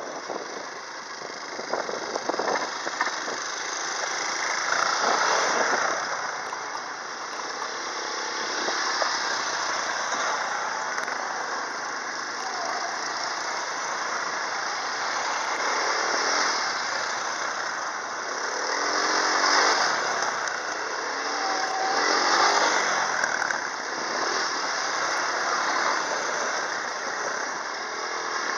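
Quad bike engine running under way, its sound swelling and easing every few seconds as the throttle changes.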